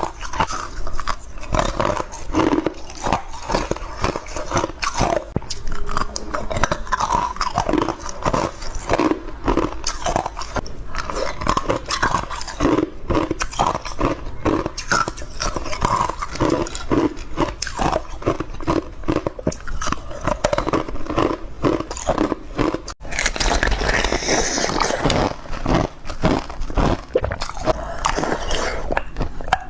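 Ice being bitten and crunched close to the microphone: a dense, rapid run of crunches. About 23 seconds in there is a sudden break, followed by a couple of seconds of denser, hissier crunching.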